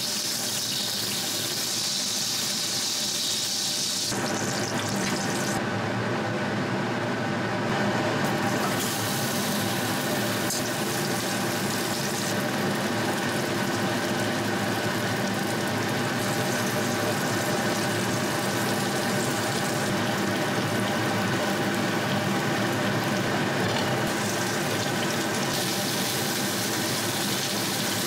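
Steady frying sizzle in a pan of rendered duck fat: duck breasts at first, then potato chunks after a change about four seconds in.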